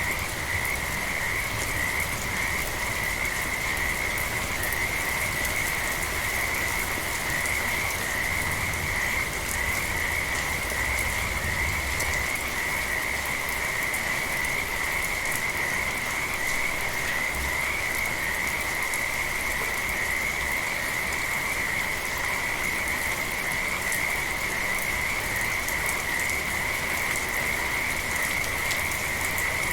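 A dense chorus of frogs calling without a break, a steady high-pitched drone, over a light patter of rain.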